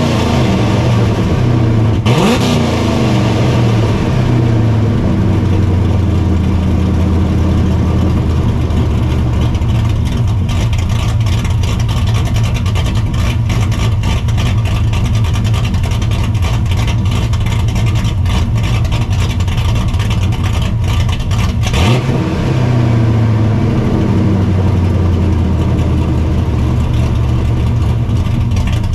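Straight-piped, cammed and supercharged Ford 5.4 2V V8 in a 1999 Mustang GT idling loudly, revved sharply twice, about two seconds in and again near the twenty-two second mark, each rev rising quickly and falling back to idle.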